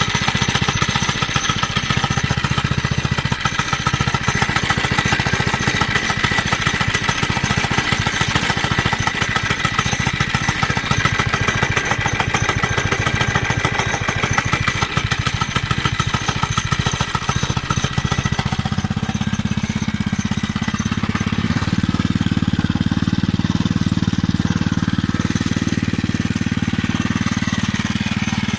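86cc four-stroke engine of a Chinese minibike running with a rapid, even firing beat. About two-thirds of the way through its sound changes, becoming smoother and duller, and it runs on steadily like that.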